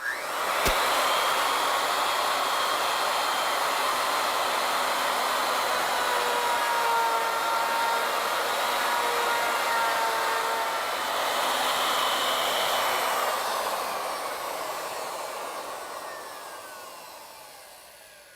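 Plunge router on an ornamental milling machine running at full speed while its bit cuts into a wooden table leg. About 13 seconds in it is switched off and spins down, its whine falling in pitch as it fades.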